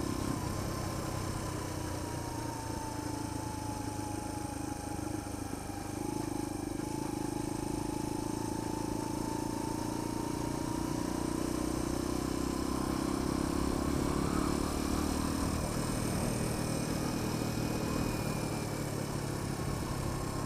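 Sinnis Apache 125's 125 cc engine running steadily under way, with a rush of wind over the helmet camera. The engine note dips briefly about six seconds in, then holds steady again.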